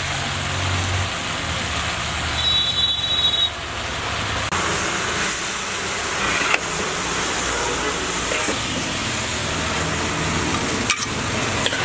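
Chicken frying in a large wok over a gas burner: steady sizzling with the burner running, and a metal spatula scraping and knocking against the wok as the pieces are tossed, with a couple of sharp clacks.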